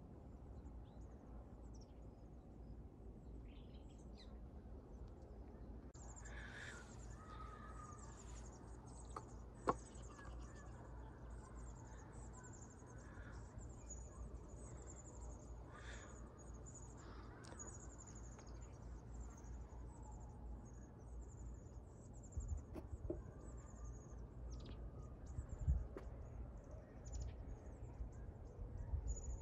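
Open-air natural ambience: a low wind rumble on the microphone, with birds chirping and a high, rapid chirping that repeats from about six seconds in. There is a sharp click about ten seconds in and a few soft knocks near the end.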